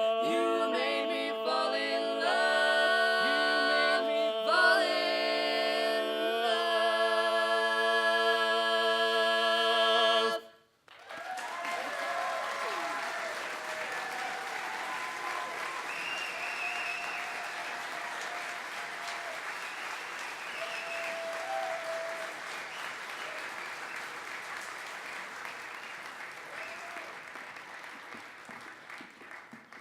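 Mixed barbershop quartet singing a cappella, finishing the song on a long held chord that cuts off sharply about ten seconds in. Audience applause with a few cheers follows and slowly fades.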